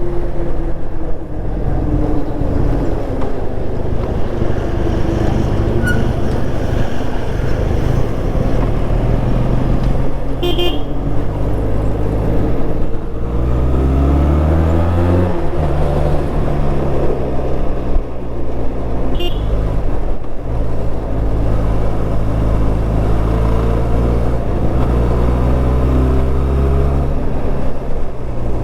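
Benelli TRK 502 motorcycle's parallel-twin engine running under way, revs rising and falling through gear changes, with wind rush. Two short horn toots sound, about ten seconds in and again about nineteen seconds in.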